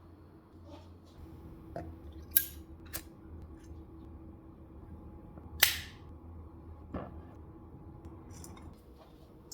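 Faint lingering hum of a Tibetan singing bowl, broken by about five sharp clicks and short scrapes, the loudest two about a quarter of the way in and just past halfway.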